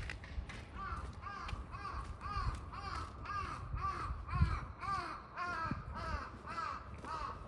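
A crow cawing in a quick, even run of short calls, about two or three a second, which stops near the end.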